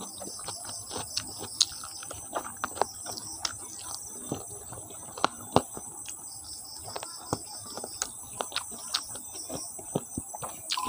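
Close-miked eating of rice and chicken curry: wet chewing and lip smacking, with many sharp, irregular mouth clicks.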